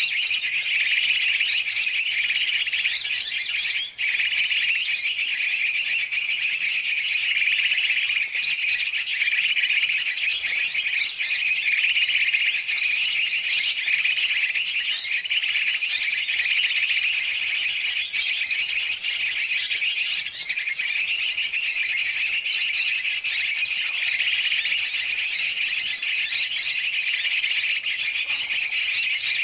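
Bird-lure track: a dense, noisy chorus of many small and larger birds chirping and chattering at once. Fast repeated trills cut in every second or two in the second half.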